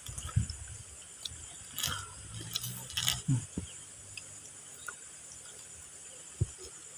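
Crunchy basreng (fried meatball crisps) being bitten and chewed, in scattered crunches with short pauses between them.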